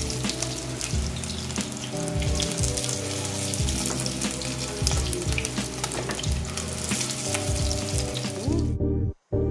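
Dulong (silverfish) nuggets sizzling and crackling in hot oil in a frying pan as they are turned with metal tongs. The sizzle breaks off suddenly near the end.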